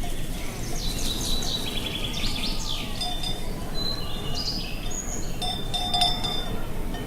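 Bells on grazing livestock clinking and ringing at irregular moments, with a cluster of strikes about six seconds in, over a steady low rush of wind.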